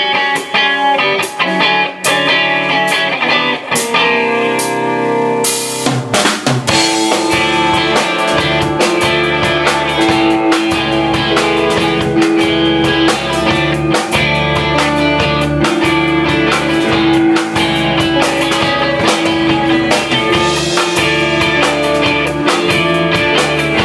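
Live rock band playing an instrumental song intro. Guitar chords ring with scattered drum hits, then about six seconds in the full band comes in with drum kit, bass and guitar on a steady beat.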